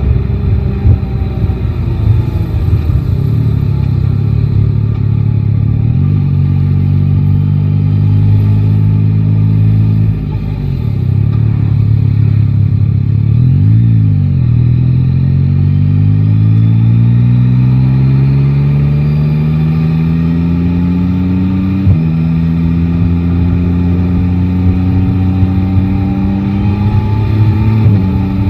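Yamaha Tracer 9 GT's engine under way in traffic: its pitch falls off as the bike slows about a third of the way in, then rises steadily as it accelerates, dropping suddenly at an upshift about 22 seconds in and climbing again before another shift near the end. A low rumble of wind and road noise runs under it.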